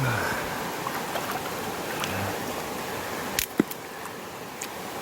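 River water running steadily, with two sharp clicks or knocks close together about three and a half seconds in.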